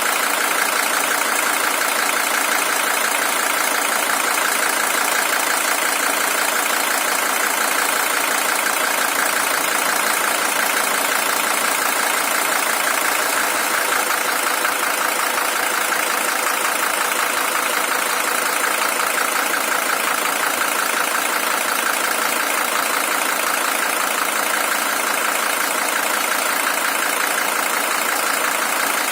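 Mercedes-Benz OM617 five-cylinder diesel engine of a W123 300TD idling steadily with an even diesel clatter. The engine is the original unit, with 620,000 km on it.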